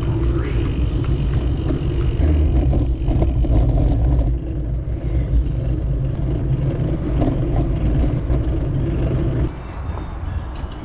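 Wind rumble on the microphone and road noise while riding a bicycle, loud and steady, dropping off suddenly about nine and a half seconds in.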